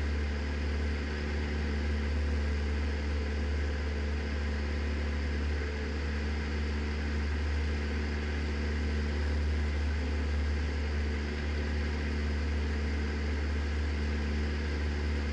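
Cessna 172's piston engine and propeller running in level flight: a steady, unchanging drone with a strong low hum.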